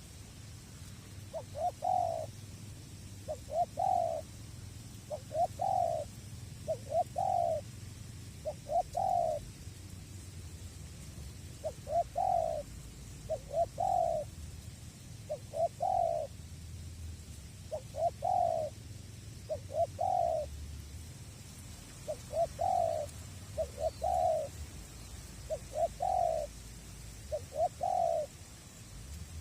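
Spotted dove cooing a repeated series of short, mellow notes, mostly in pairs and threes with short pauses between, over a low wind rumble.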